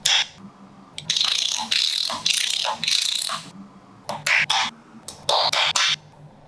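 Small magnetic balls clicking and snapping together, with a dense rattling clatter for a couple of seconds starting about a second in, then two quick runs of sharp clicks.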